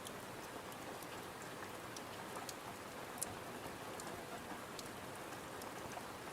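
Steady rain pattering on a window, with scattered sharp clicks and crackles through it.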